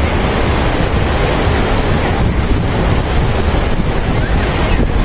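Steady, loud rush of falling water from a man-made waterfall, with wind buffeting the microphone.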